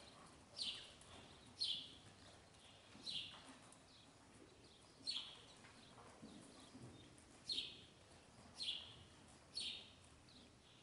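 Small birds chirping faintly: about seven short, high chirps at irregular intervals.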